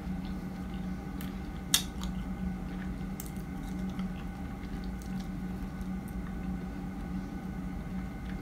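Chewing and squishing mouth sounds of someone eating fresh strawberries, with a sharp click a little under two seconds in, over a steady low hum.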